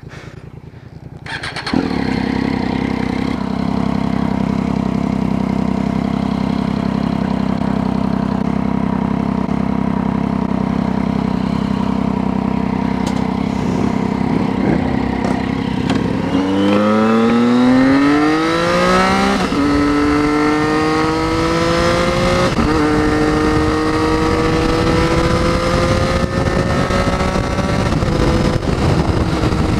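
Triumph Street Triple's inline three-cylinder engine starts about two seconds in and idles steadily. Near the middle it pulls away, the engine note rising through first gear and shifting up twice as the bike accelerates.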